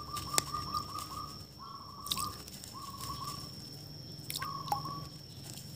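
A bird calling in four short phrases of rapid repeated notes at one pitch. A faint, steady, high whine runs underneath, and there are a few sharp clicks.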